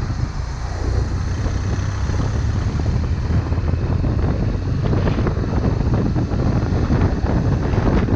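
Motorcycle riding along: a steady low engine drone under heavy wind buffeting on the onboard action camera's microphone.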